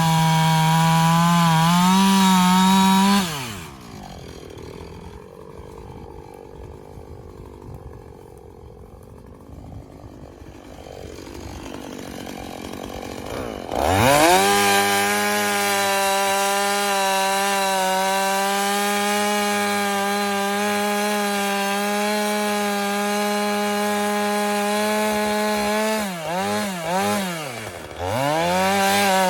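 Two-stroke chainsaw running at full throttle, cutting into a hardwood log. About three seconds in it drops to idle, then about ten seconds later it revs back up and holds high revs, with the revs dipping and rising twice near the end.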